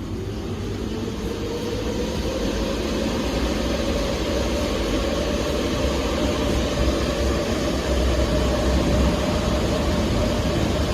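An automatic pet washing machine resuming its disinfection cycle: a motor spins up, its whine rising in pitch over the first few seconds and then holding steady, over a steady rushing noise.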